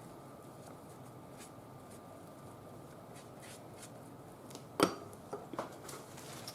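Soft rustling of paper being handled, with one sharp tap a little under five seconds in and a few softer clicks after it.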